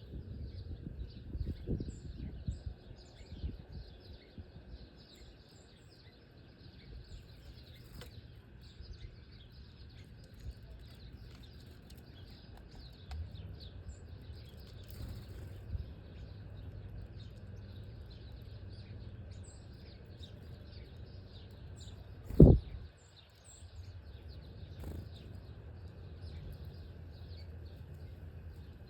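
Small birds chirping continuously, with a few low thumps in the first seconds and one sharp, loud knock about twenty-two seconds in.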